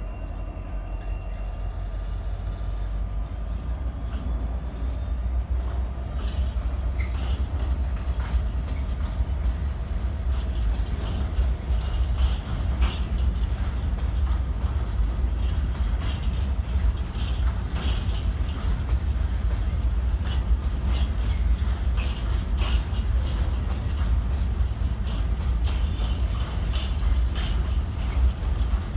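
Freight train of hopper wagons rolling past: a steady low rumble with the wheels clacking and clicking over the rail joints, the clatter growing busier about six seconds in.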